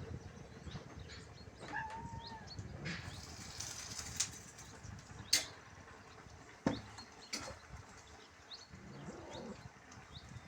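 Faint chirping of small birds, with several sharp clicks or taps between about four and seven and a half seconds in.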